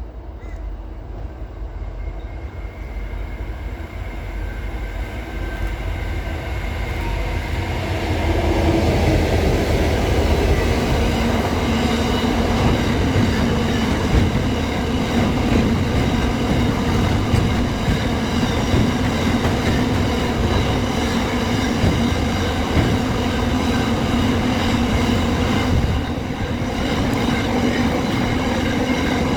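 A train passing close by: rumble of wheels on rail that builds over the first several seconds and then runs on steadily and loud, with a steady ringing wheel squeal over it.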